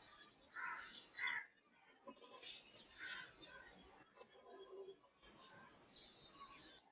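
Several small birds chirping and calling, ending in a fast run of high repeated notes near the end.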